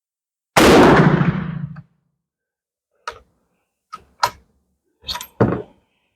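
A single loud rifle shot from a .45-70 Sharps falling-block rifle, fading out over about a second. A few seconds later come five short, sharp clicks.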